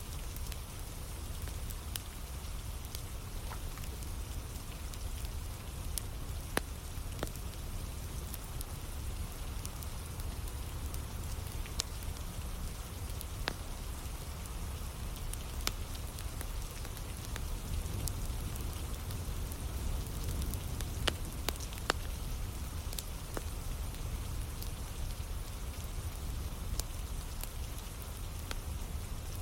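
Steady rain with a wood fire crackling, irregular sharp pops over a continuous low rumble and hiss.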